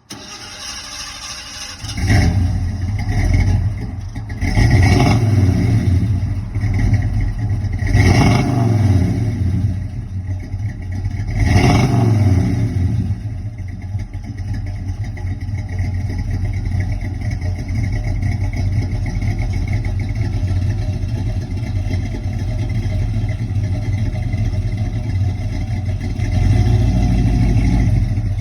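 A 350 small-block Chevy V8 (bored .030 over, small cam) in a 1984 Chevy S10 with dual exhaust comes up loud about two seconds in. It is revved four times over the next ten seconds, then settles into a steady idle.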